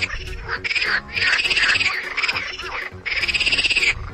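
Squirrel chattering: repeated bouts of rapid, buzzing trills, each lasting about a second.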